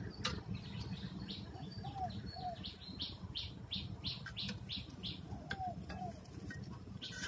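Small birds chirping: a quick run of short, high chirps, about three a second, that thins out after a couple of seconds, with a few softer, lower notes mixed in.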